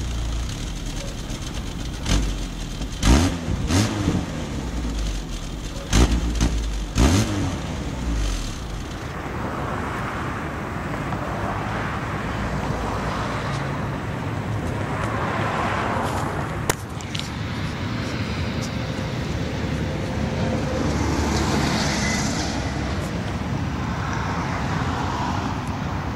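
Dacia car fitted with a sport exhaust, blipped in short revs a few times in the first seven seconds, the pitch rising with each rev. After that it runs more steadily, with a noisy sound that swells and fades.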